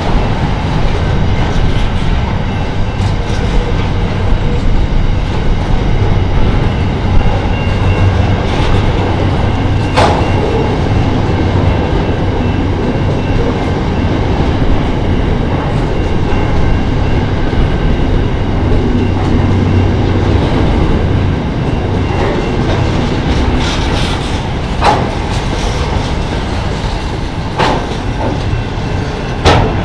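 Container freight train's wagons rolling past on the rails: a steady rumble with occasional sharp clicks, more of them in the last few seconds.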